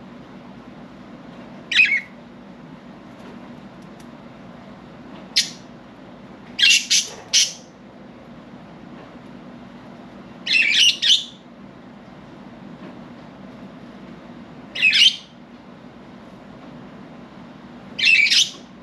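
Budgerigars giving short, sharp squawking calls every few seconds, some in quick runs of two or three, over a steady low hum.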